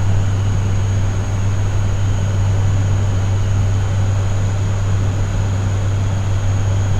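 ATR 72 turboprop's engines and propellers droning steadily in the cockpit during the climb, a low hum under an even rush, with a thin high steady tone above.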